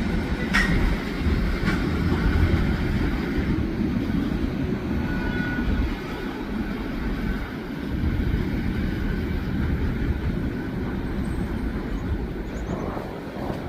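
New York and Atlantic freight train rolling past: a steady low rumble of wheels on rail, with two sharp clicks in the first couple of seconds and a brief faint squeal around the middle.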